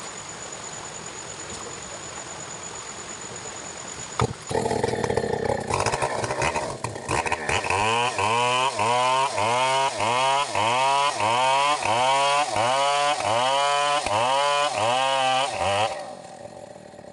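Stihl 070 two-stroke chainsaw running, its pitch rising and falling over and over, about one and a half times a second, after a click and a rough start about four seconds in. The engine sound drops away briefly near the end.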